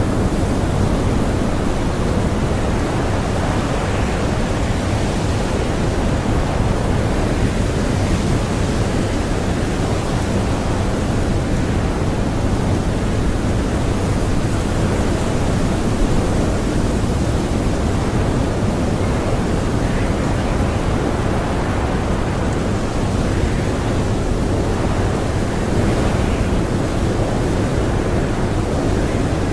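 Blizzard wind blowing as a steady, dense rush of noise, heaviest in the low end, with no distinct gusts or whistles standing out.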